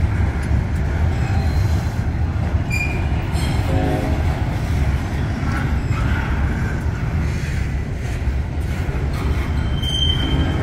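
Double-stack intermodal container train rolling past on its well cars, a steady low rumble of steel wheels on rail. A few short, high wheel squeals cut through, the clearest about ten seconds in.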